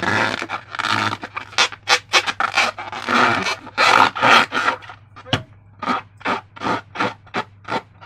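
Slime being squished and worked by hand: a rapid run of squelches, dense at first, then spaced out to about three a second in the second half.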